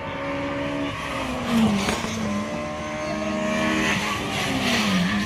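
Rally car engine running, its pitch dipping and rising again twice.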